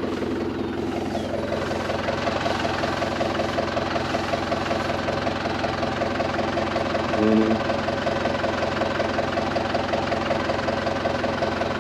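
Kubota M105S tractor's four-cylinder diesel engine running steadily under load while driving a disc mower through thick Bahia grass. A short, louder tone sounds briefly about seven seconds in.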